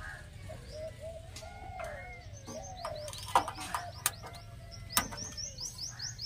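Birds chirping and calling, with many short sliding notes and a rapid run of high falling chirps in the second half. Three sharp clicks or knocks stand out, the loudest about a third of the way in.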